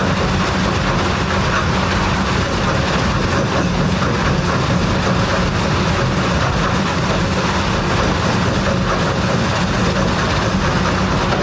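Jaw crusher running, a steady, dense grinding rattle over a low hum.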